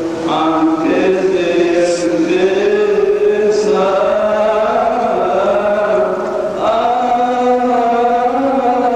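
Coptic liturgical chant: a priest sings a long, drawn-out melisma on held vowels, the notes sliding slowly up and down. He breaks for breath about a third of a second in and again around six and a half seconds, then carries on the same phrase.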